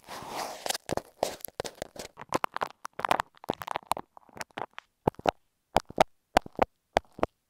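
Close-up ASMR handling noises on an earphone microphone: a brief scratchy rustle, then a quick, irregular run of sharp clicks, pops and crackles as things are pressed onto and picked off the mic, with a short pause about four seconds in.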